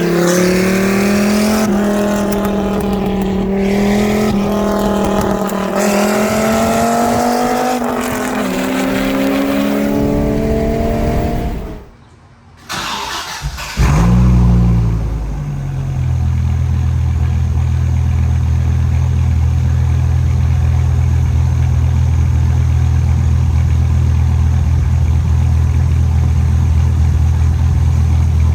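Dodge Viper's 8.0-litre V10 under acceleration, its pitch climbing, dropping back about eight seconds in, then climbing again; this stretch is on a Corsa catback with Belanger high-flow cats. After a short break, the V10 is started with a quick rise in revs and settles about two seconds later into a steady, deep idle, on stock headers and cats with the muffler deleted.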